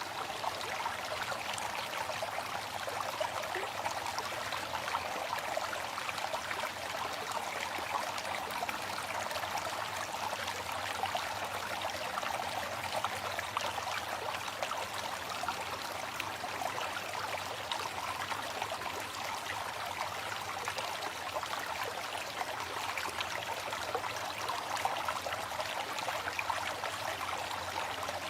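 Waterfall: water falling and splashing in a steady, even rush, with no breaks or changes.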